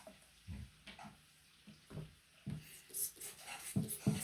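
Scattered light knocks and faint scraping from chipping and handling a wet plaster gem-excavation block, a handful of soft taps spread irregularly, a few close together near the end.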